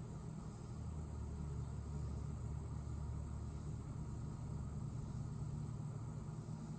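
Low rumble of a vehicle passing at a distance, swelling about a second in and easing off near the end, over a steady high-pitched drone of insects.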